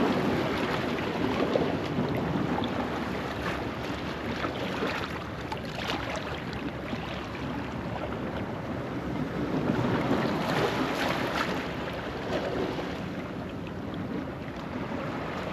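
Ocean waves washing over a rocky shore at low tide, in slow swells that rise and fall, with wind buffeting the microphone.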